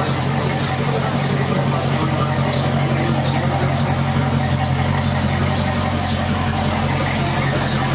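Volvo Penta 5.7-litre V8 sterndrive engine idling steadily.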